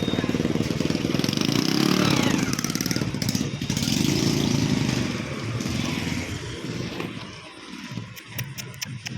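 A small engine running steadily, fading away after about five seconds, with a few sharp clicks near the end.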